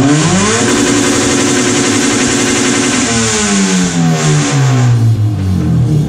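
Mercedes-Benz 380 SL's 3.8-litre V8 revved from idle, held high for about two seconds, then falling back to idle by about five seconds in. It revs up cleanly.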